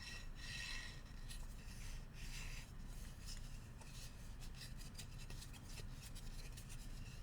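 Bamboo utensils being rubbed and scraped, with a few scratchy strokes in the first seconds and then a run of light, quick taps and clicks.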